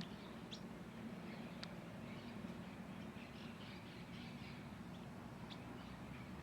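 Small birds chirping faintly: a few short, high chirps and soft twittering over a steady low hum.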